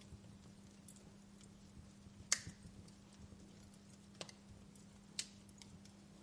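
Wood fire in a fireplace crackling, with sparse sharp pops: a loud one about a third of the way in and two smaller ones later, among fainter ticks, over a faint steady low hum.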